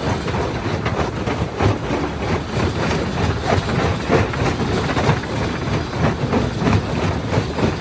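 Primary jaw crusher running under load: steady heavy machine noise with a continual clatter of irregular knocks as stone is broken in the jaws.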